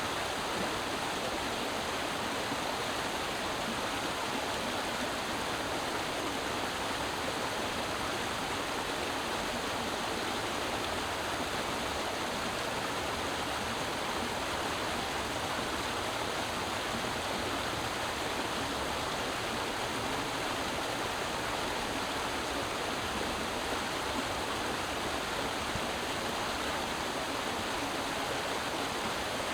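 Creek water flowing and splashing over rocks, a steady rushing sound.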